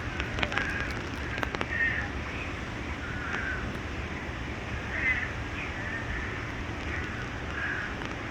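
A bird giving short, harsh, crow-like calls, about one a second, over a steady low rumble, with a few sharp clicks in the first couple of seconds.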